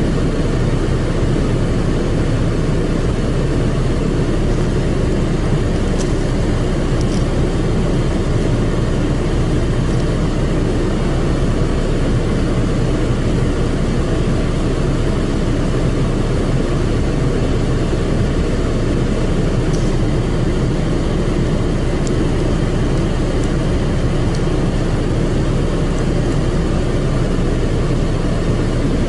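Automatic car wash machine running, heard from inside the car as a steady, loud noise with a few faint ticks.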